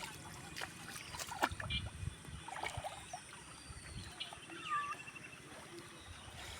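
Water sloshing and splashing with scattered small knocks as hands work through shallow muddy water, while a bird calls a few rising and falling whistles and a short trill about halfway through.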